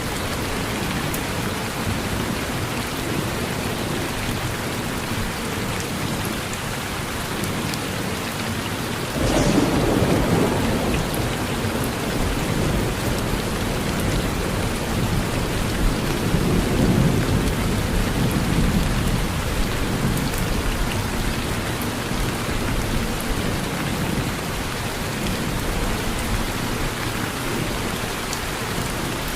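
Steady rain falling, with a sudden thunderclap about nine seconds in that rolls on as a low rumble and swells again a few seconds later.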